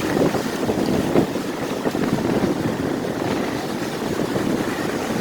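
Strong wind buffeting the microphone over the steady rush of rough, heavy surf.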